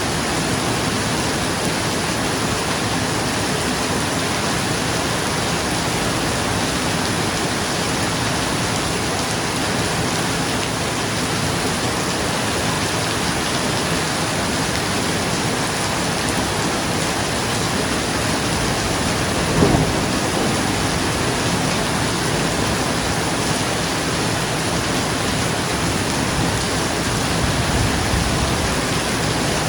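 Steady rain falling on a roof, a continuous even hiss, with distant thunder: a short low burst about two-thirds of the way in and a low rumble near the end.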